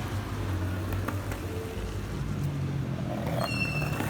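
A motor vehicle's engine running on a wet town street, a steady low hum. About three and a half seconds in comes a brief high squeal lasting about half a second.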